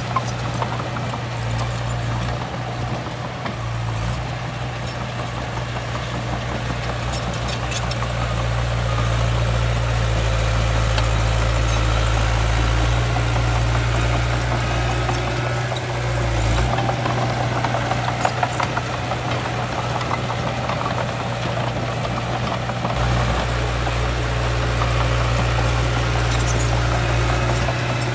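Heavy diesel earthmoving machinery running steadily, a low engine drone that grows louder a few seconds in and dips briefly twice.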